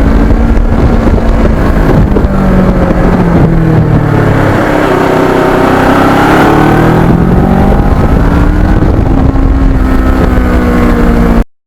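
Kawasaki Ninja motorcycle engine running under way, its pitch rising and falling several times as the rider speeds up and slows, with some wind noise.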